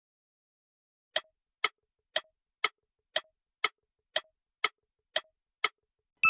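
A clock-ticking sound effect: ten crisp ticks, about two a second, starting about a second in.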